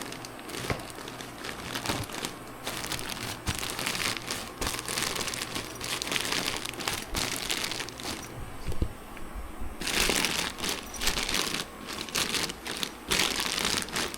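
Plastic vacuum-compressed storage bag crinkling and rustling in irregular surges as it is handled and pushed into a motorcycle saddlebag.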